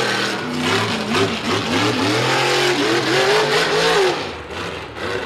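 Mega truck engine revving hard, its pitch rising and falling several times in quick succession. It eases off about four seconds in.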